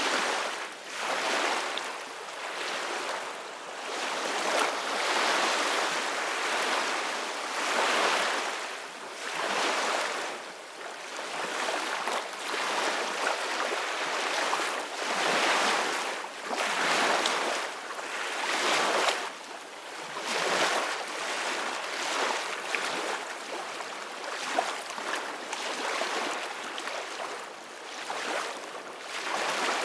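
Ocean surf: waves washing in, the noise swelling and fading every couple of seconds, with little deep rumble.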